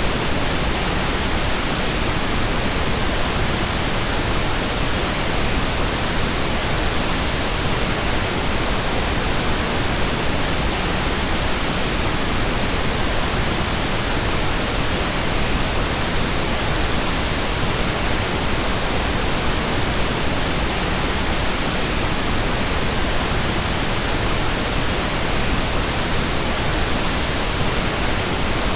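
Steady, unchanging pink noise: an even hiss across all pitches with no events.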